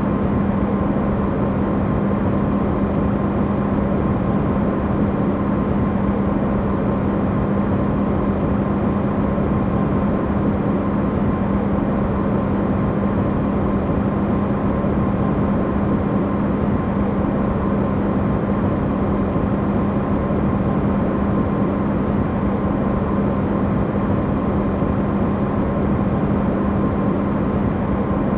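Electrolux refrigerator running, recorded amplified: a steady hum with a strong low tone and a fainter higher one over an even rumbling noise.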